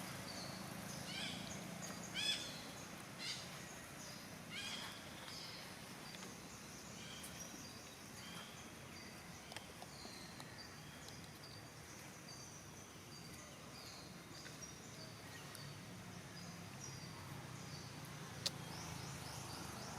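Outdoor ambience with many short, high-pitched chirping calls, some gliding downward, thickest in the first few seconds and scattered after, over a steady low background hiss.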